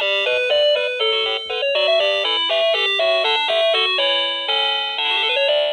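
Electronic tune from a battery-powered toy's sound chip: a quick stepping melody of bright, buzzy beeper-like notes that stops abruptly at the end.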